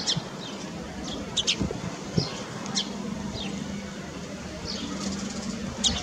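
Birds chirping: single short, high, falling notes about once a second, with a low steady hum that comes in about halfway through.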